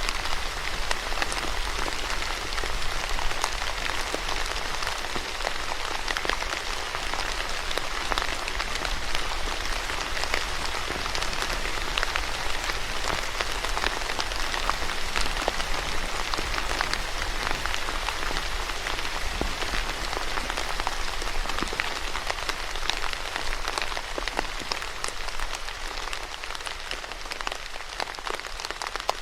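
Steady rain falling on a surface, a dense hiss with many individual drops ticking through it.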